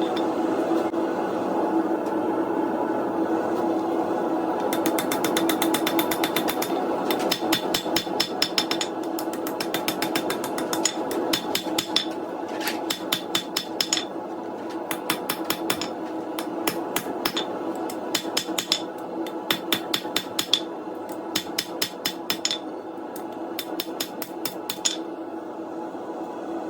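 Hand hammer forging a piece of coil-spring steel, striking in quick runs of several blows a second from about five seconds in, with short pauses between runs. A steady roar carries on underneath.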